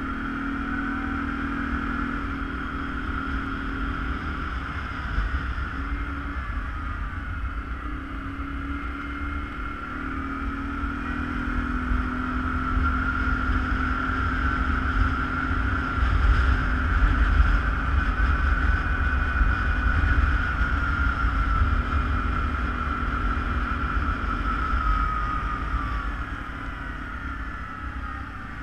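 ATV engine running while riding, with a steady whine that wavers slightly in pitch over a heavy low rumble. It grows louder towards the middle and eases off near the end.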